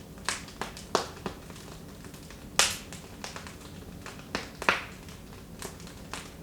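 Wood fire in a fireplace crackling: irregular sharp pops and snaps over a low steady background, with two louder pops, one about a third of the way in and one near three quarters.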